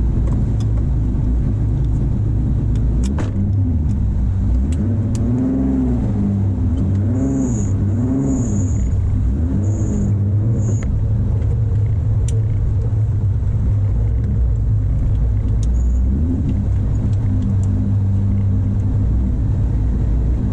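Engine of a roughly 800 hp BMW E46 touring drift car idling steadily, heard from inside the cabin, its pitch rising and falling a few times around the middle. A few sharp clicks sound over it.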